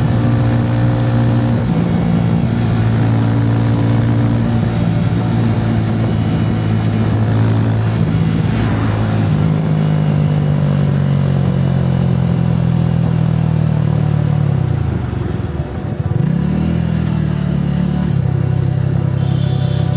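Roadmaster Rapido 150cc motorcycle's engine and exhaust running under way, holding a steady pitch that shifts step-wise a few times. About three-quarters of the way through the revs drop sharply, then climb again.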